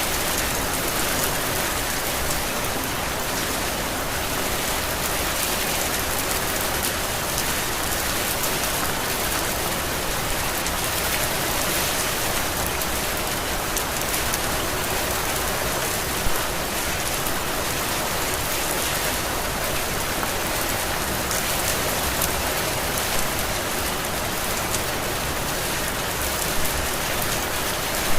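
Heavy rain falling steadily, an even hiss of rain on surfaces, with a couple of brief louder spatters about halfway through and near the end.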